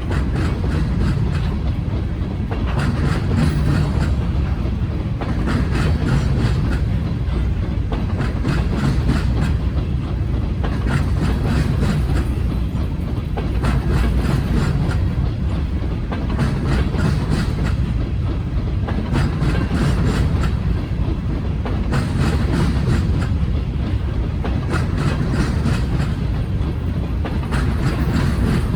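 Norfolk Southern freight train cars rolling past at steady speed: a continuous low rumble with clusters of wheel clicks over the rail joints every few seconds, as each car's trucks go by.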